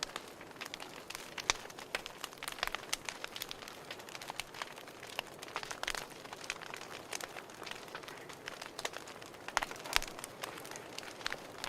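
Fireplace fire crackling: irregular snaps and pops over a soft steady hiss.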